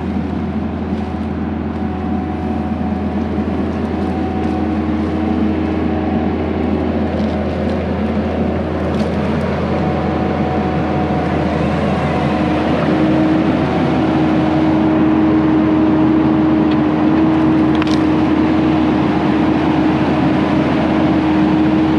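Diesel engines of a skid steer and a mini excavator running steadily while the skid steer works a felled tree toward the pile. About halfway through, the engine note steps up and gets a little louder.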